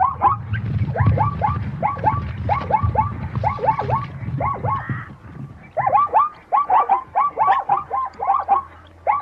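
An animal giving a rapid series of short chirping calls, about three or four a second, each call dropping in pitch. The calls come in runs with a brief pause about halfway through, and a low rumble sits under the first half.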